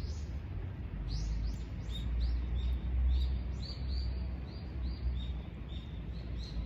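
A small bird chirping over and over, short high falling notes about two a second, over a steady low rumble.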